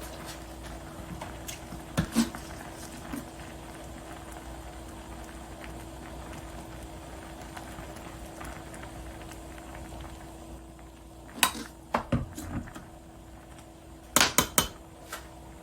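A pot of doenjang stew simmering with a steady bubbling over a constant low hum. Sharp clinks of utensils or pot come about 2 seconds in, in a cluster around 11 to 12 seconds, and in a quick burst near the end.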